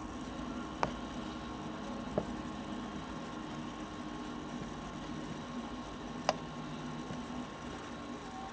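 Steady hum and hiss from an air traffic control radio channel with nobody transmitting, broken by three short clicks.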